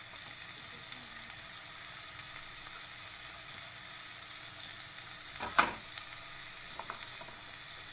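Marinated chicken pieces sizzling in hot oil in a non-stick frying pan as they are dropped in, a steady frying hiss. A brief, much louder burst comes about five and a half seconds in, with a smaller one a little later.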